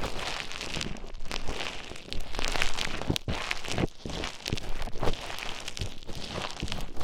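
Play Foam bead modelling compound being mixed and worked with an ear pick inside a microphone's ear, close up: a dense, uneven run of small crackles and clicks.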